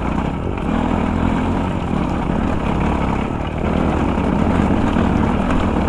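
Dirt bike engine running steadily while being ridden over rough ground.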